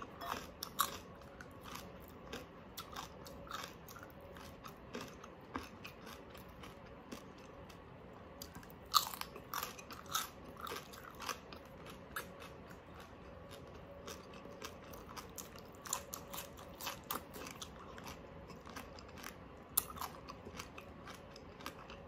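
Close-up chewing and crunching of crispy oven-baked pork, with irregular sharp crunches scattered throughout, loudest about nine seconds in.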